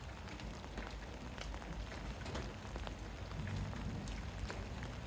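Heavy rain pouring down on a city street: an even hiss dotted with many sharp drop ticks, over a low rumble that swells briefly a little past halfway through.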